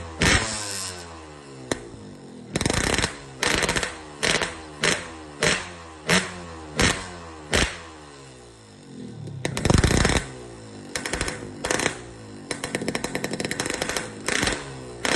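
Motorcycle engine blipped through a hollowed-out stock muffler: quick throttle stabs, one every half second or so, with the revs falling away after each, and a couple of longer revs about three seconds and ten seconds in.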